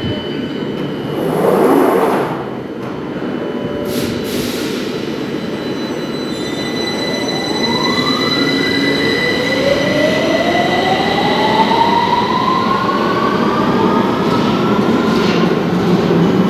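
Victoria line 2009 Stock tube train pulling away, its traction motor whine rising steadily in pitch as it gathers speed over the rumble of the wheels on the track. A short louder swell comes near the start.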